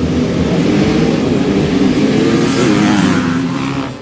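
Several motocross bikes' engines revving hard together, loud, with pitches rising and falling; the sound drops away near the end.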